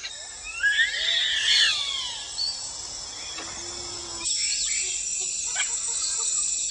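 Rainforest ambience: a steady high insect drone with loud sweeping, wavering wild animal calls about a second in, and a few fainter calls later.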